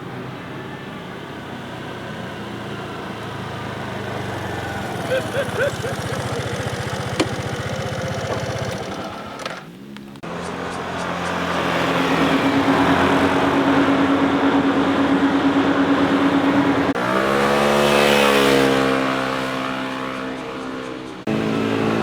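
Motorcycle engines passing on the road, in several short passes. One engine holds a steady pitch for a few seconds, then another sweeps past with its pitch falling away, a little after halfway through.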